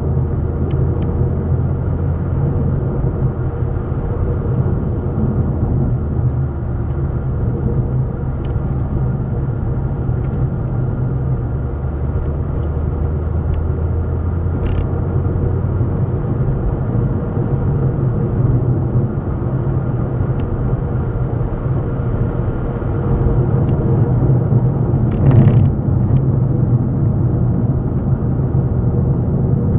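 Steady low rumble of a running engine, unchanging in pitch, with a few faint clicks and a brief louder rattle about 25 seconds in.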